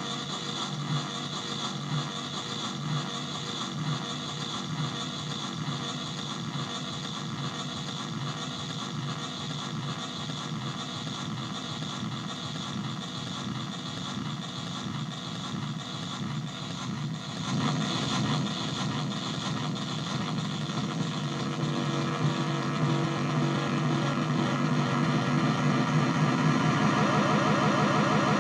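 Improvised electronic noise drone from contact-miked instruments run through distortion and delay pedals into an amp: a dense, steady, engine-like hum with many held tones. It grows louder about two-thirds of the way through, and wavering pitch sweeps come in near the end.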